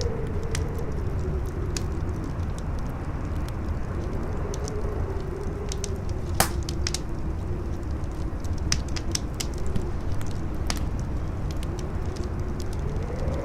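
Campfire crackling with scattered small pops and one sharper snap about six and a half seconds in, over a steady howling wind whose pitch slowly wavers up and down.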